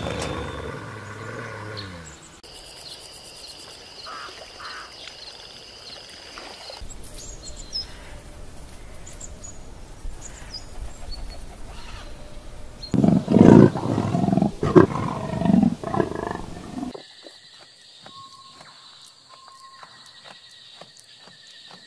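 Wild animal calls, loudest as a run of deep, strong calls about two-thirds of the way through; the background changes abruptly several times.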